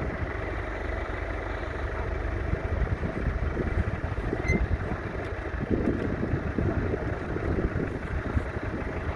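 McCormick International B275's 2.3-litre four-cylinder diesel tractor engine running steadily.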